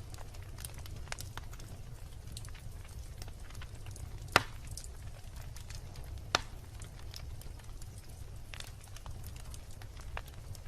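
Wood bonfire burning, with scattered crackles over a low steady rumble of the flames, and two loud sharp pops from the burning wood, about four and six seconds in.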